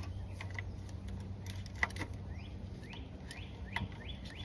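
Small birds chirping repeatedly in short rising notes, more often in the second half, with a few faint sharp clicks and taps.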